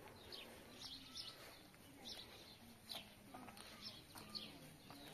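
Small birds chirping faintly in short, high, falling notes at irregular intervals.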